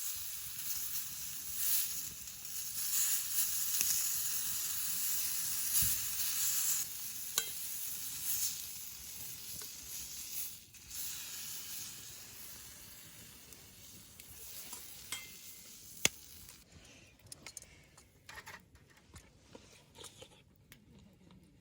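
Meat sizzling as it cooks, a steady hiss that dies down over the last few seconds. A few sharp clicks sound over it, the loudest about two-thirds of the way through.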